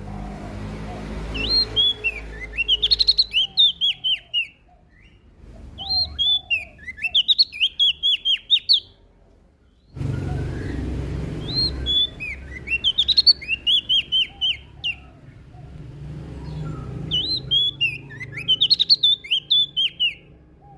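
Prenjak daun (leaf warbler) singing in four bursts of rapid, high chirping phrases with short pauses between, over a low background rumble that breaks off abruptly about ten seconds in.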